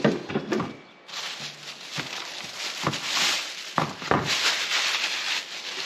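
Tool organizer rack parts being handled: a few knocks and thuds over a steady rustling noise.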